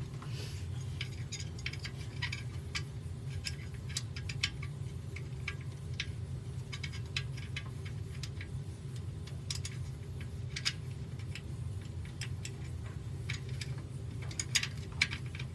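Scattered light clicks and rattles of small parts being handled during washing machine reassembly: pump retaining clips and fittings being pushed, turned and set in place. The clicks are irregular and grow a little louder near the end, over a steady low hum.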